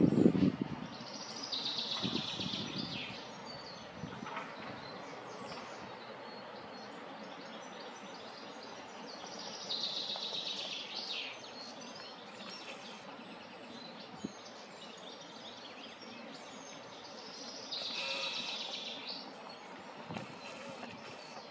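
A songbird sings the same short, high phrase three times, about eight seconds apart, over a steady outdoor hiss. A brief low rumble comes at the very start.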